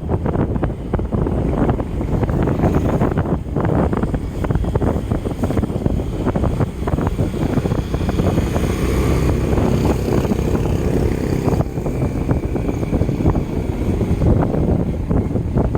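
Wind buffeting the microphone of a camera carried on a moving bicycle, a loud, rough, low rumble with constant gusting, mixed with road noise.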